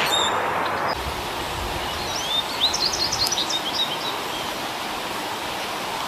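A bird chirping a quick run of about a dozen short, high notes, some of them rising, about two seconds in, over a steady rushing background noise.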